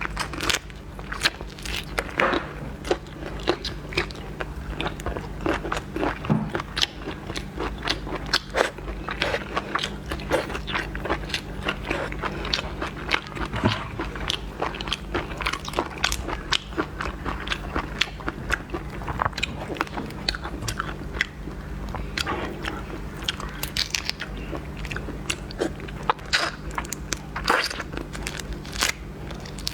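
A person eating seafood close to the microphone, with irregular crisp crunches and chewing throughout, over a faint steady low hum.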